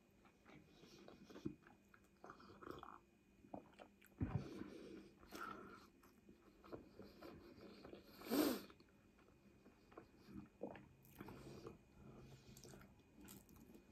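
A person chewing food quietly with the mouth closed: faint soft wet clicks and squelches, with one louder mouth sound about eight seconds in.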